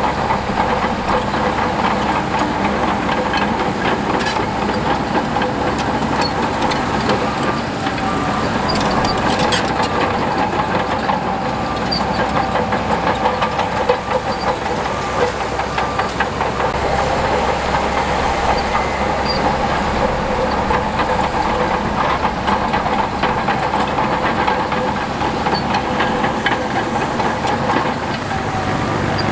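Heavy diesel earthmoving machinery working steadily, with a constant high squeal and scattered metallic clanks, as from a crawler bulldozer moving on steel tracks.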